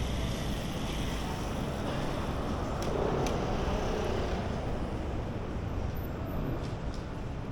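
Steady city street traffic noise, a rumble of passing road vehicles, with a few faint clicks.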